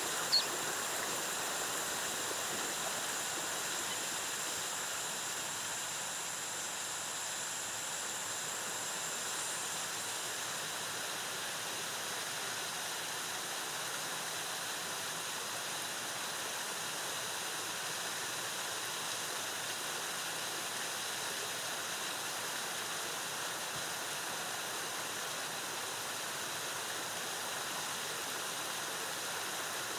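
Waterfall's cascading water rushing steadily. Just after the start there is a short, sharp high chirp, and a faint steady high tone stops about ten seconds in.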